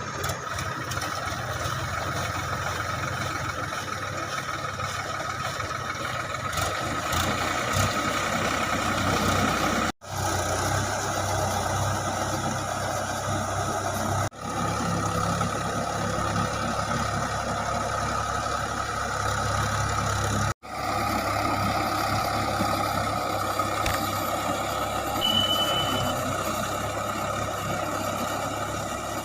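Tractor diesel engine running steadily under load while driving a rotavator through the soil, broken by three brief gaps.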